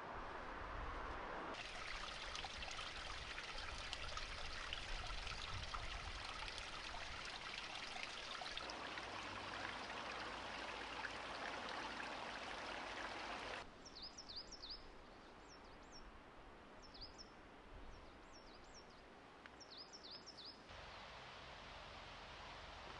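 Rushing water from a waterfall or stream, a steady hiss that changes abruptly in level a couple of times. It then drops to a quieter background in which a small bird gives repeated short, quick chirps.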